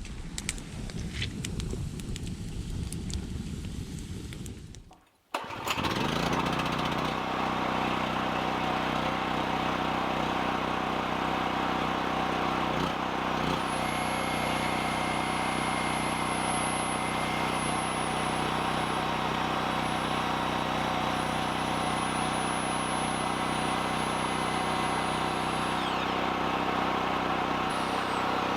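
Small wood fire crackling, then after a sudden cut about five seconds in, an engine running steadily at constant speed, with a faint high whine over it.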